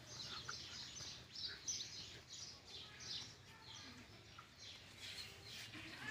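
Small birds chirping in the background: many short, high chirps in quick succession, faint.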